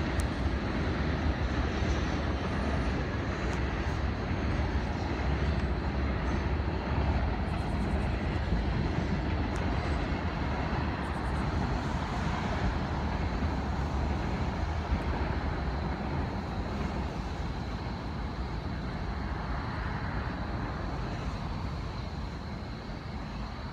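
CSX coal train's freight cars rolling past: a steady rumble of wheels on rail with a few faint clicks, slowly fading over the last several seconds.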